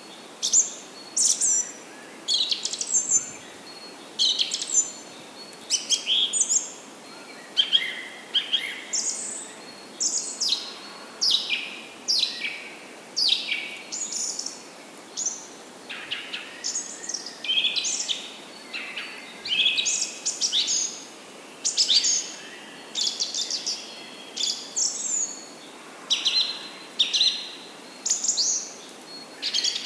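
Birds chirping and calling continuously: a dense chorus of short, high calls, many sweeping downward, about one or two a second, over a faint steady hiss.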